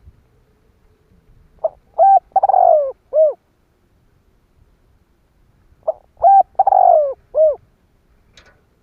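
Spotted dove singing its cooing song twice, about four seconds apart. Each phrase is a couple of short notes, then a longer falling coo and a short closing note. It is the call that keepers play or use to lure wild doves in.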